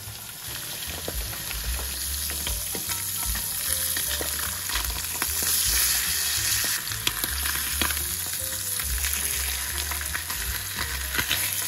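Chicken drumsticks and then mackerel fillets frying in hot oil in frying pans: a steady sizzle with scattered small crackles.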